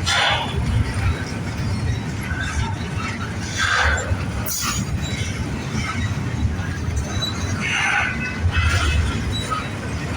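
Double-stack intermodal freight train rolling past, a steady low rumble of cars on the rails with short bursts of wheel squeal every few seconds.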